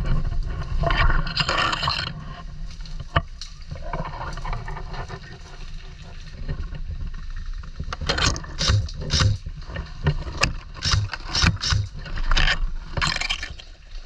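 Rustling and scraping noise with a low rumble from wind or handling on the microphone, and a couple of single sharp clicks; the rustling comes in quick, uneven bursts in the second half.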